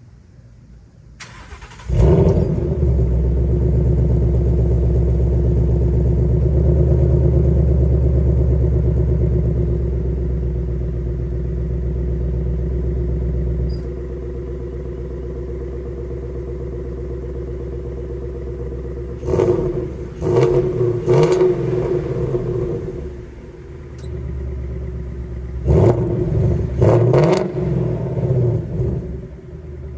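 2019 Ford Mustang Bullitt's 5.0-litre V8 starting warm and flaring to a fast idle, dropping to a lower idle about halfway through, then revved in quick blips, two groups of three, near the end. It breathes through stock headers with cats, an X-pipe with the resonators deleted and the factory active exhaust.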